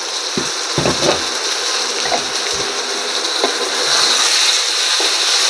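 Prawn and pointed gourd curry sizzling in a frying pan as its last bit of water cooks off and it starts to fry, a steady hiss that grows a little louder near the end. A few low knocks about a second in.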